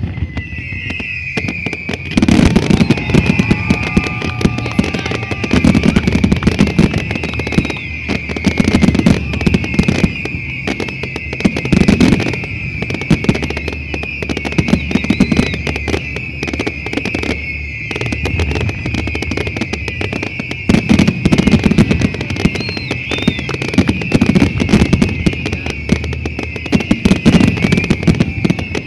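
Fireworks finale: a dense, unbroken barrage of sharp bangs and crackling, with deep booms every second or two and a continuous high hissing whistle over it all.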